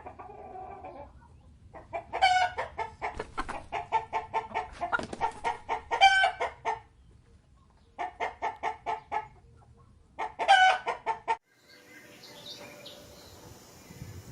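Chicken cackling: fast runs of clucks broken by a few louder, longer squawks, in three bouts. A fainter, different background takes over near the end.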